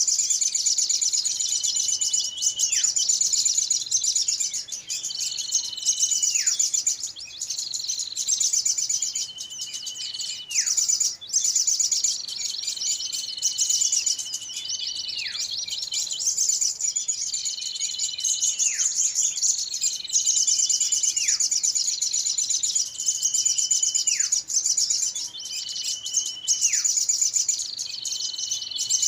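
Looped bird-lure recording of small birds calling excitedly. A dense, high, buzzy trill runs throughout, and a whistled note holds level and then drops sharply, repeating about every two seconds.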